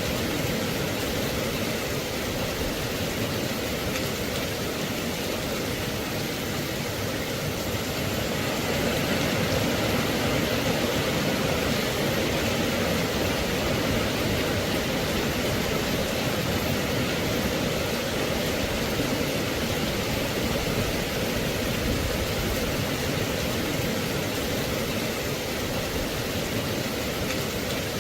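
Steady rain, an even hiss that swells slightly about nine seconds in.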